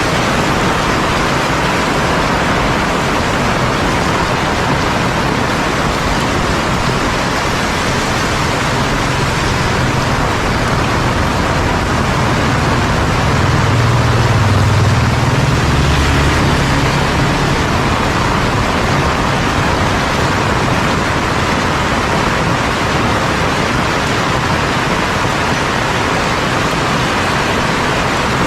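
Heavy rain falling steadily, a dense even hiss. A low rumble swells in the middle and fades again.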